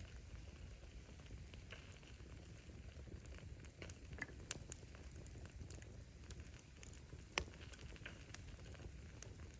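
Wood fire burning with a low rumble of flame and scattered crackles and pops of bursting firewood; the sharpest pop comes a little past seven seconds in.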